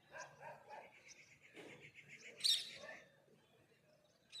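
Birds chirping in a morning chorus: a quick run of repeated high notes for about two seconds, with other chirps around it and one loud, sharp chirp about two and a half seconds in.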